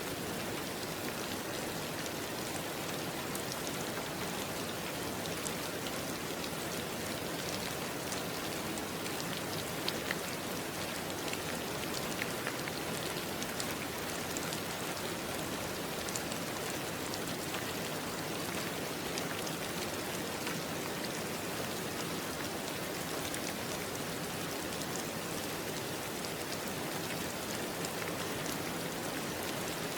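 Steady rain falling, with scattered individual drops tapping on a surface.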